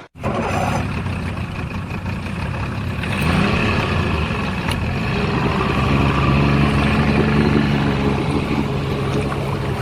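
Diesel engine of heavy machinery running steadily, its low hum growing a little stronger partway through. The sound cuts out briefly right at the start.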